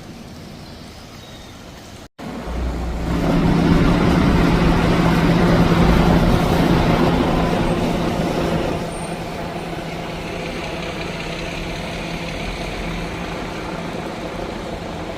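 Heavy road vehicle's engine running close by with a steady hum. It comes in loud about three seconds in, just after a brief cut-out of the sound, and drops to a lower steady level about nine seconds in.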